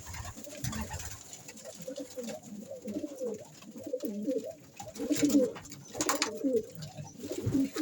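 Domestic pigeons cooing, low throaty calls repeating one after another, with a few short knocks or scrapes in the loft about five and six seconds in.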